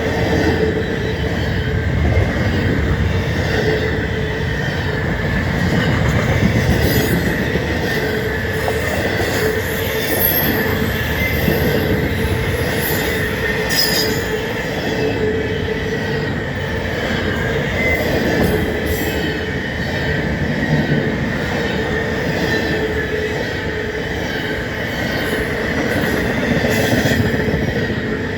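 Double-stack intermodal container cars rolling past, steel wheels on rail with a steady rumble and a continuous high squeal from the wheels.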